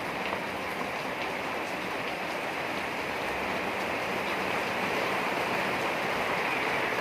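Steady rain falling, an even hiss with a few faint drop ticks, growing slightly louder over the last few seconds.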